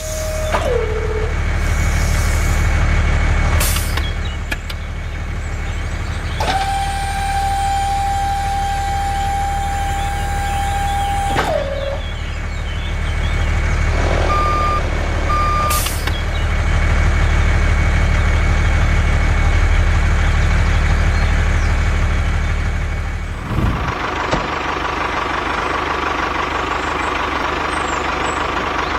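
Steady low engine-like hum of a small vehicle, with a held whining tone that drops in pitch as it stops, twice, and two short beeps near the middle.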